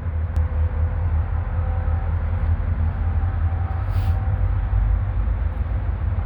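Steady low rumble of a diesel freight train's locomotives approaching along the line, with faint steady tones above it.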